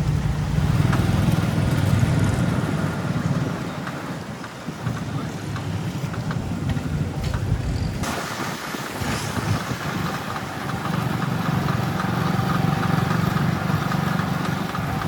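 Street traffic: motor vehicle engines running close by, a low hum that is strongest in the first few seconds and again in the second half. The whole sound changes abruptly about halfway through.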